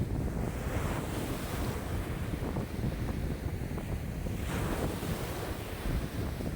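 Wind-driven waves breaking and splashing on a lake shore in a steady wind, with wind buffeting the microphone. A brighter splash comes about four and a half seconds in.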